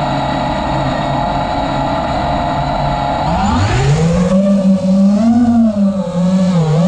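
Motorsport engine, likely a drift car's, holding a steady note, then revving up about three and a half seconds in. After that its pitch rises and falls with the throttle.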